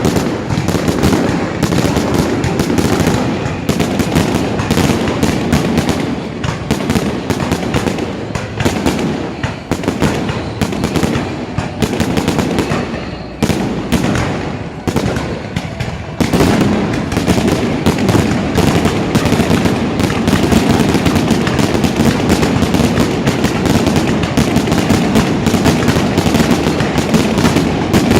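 Fireworks going off in a dense, continuous barrage of bangs and crackles, thinning briefly about halfway through, then coming thicker and louder again.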